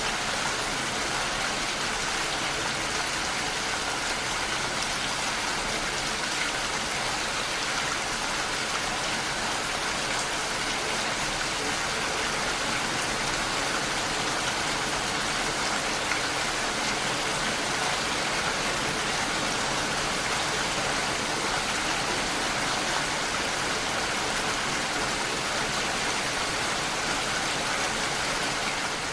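Steady rain falling, an even hiss of many drops landing on a surface.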